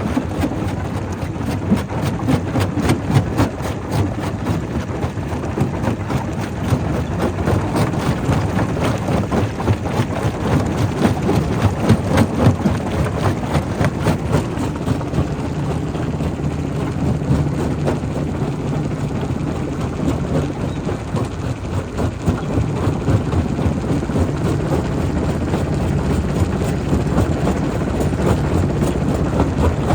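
Primary rock crusher running: a steady heavy machine drone with a dense clatter of stone knocking and breaking.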